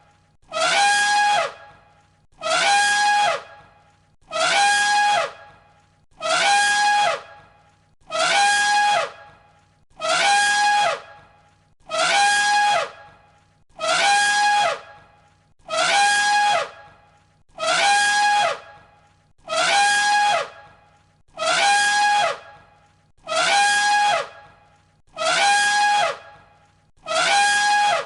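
An elephant trumpeting, one identical call of about a second repeated roughly every two seconds as a loop, each ending with a drop in pitch.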